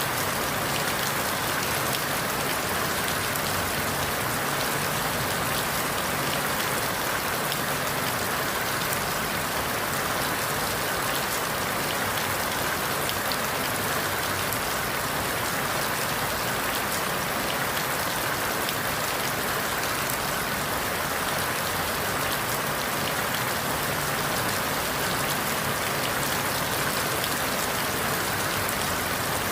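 Steady rain falling through forest leaves, an even hiss with scattered drop ticks.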